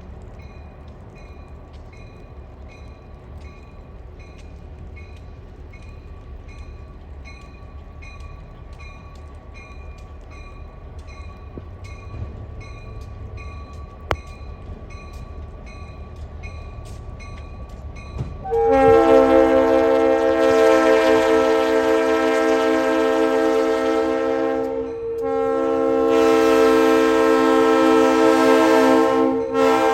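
Diesel locomotive air horn blowing two long, loud blasts and starting a third, a chord of several steady notes, after about eighteen seconds of a bell ringing about one and a half times a second over a low engine rumble.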